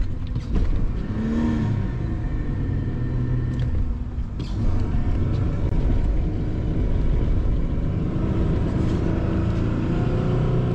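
Ford Explorer's engine running as the 4x4 drives slowly through snow, heard from inside the cab. The engine note dips and rises about a second and a half in, and a few short knocks come around the middle.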